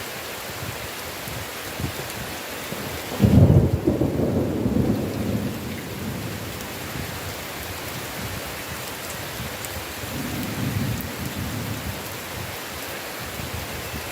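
Heavy rain falling steadily. About three seconds in, a loud clap of thunder rumbles away over a few seconds, and a fainter roll of thunder comes about ten seconds in.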